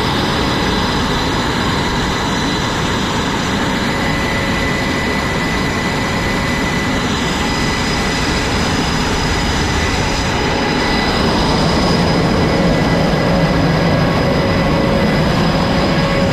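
Jet aircraft engines running on a carrier flight deck: a loud, steady roar with a high steady whine, growing somewhat louder about eleven seconds in.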